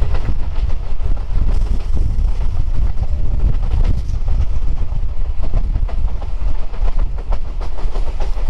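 Electric local train running at speed, heard from an open carriage doorway: a steady rumble of wheels on the rails with irregular clicks and clacks from the track.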